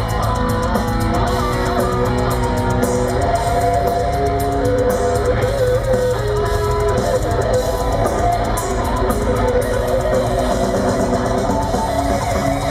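Live heavy metal band playing: distorted electric guitars, bass and drums, with a guitar melody of held notes on top.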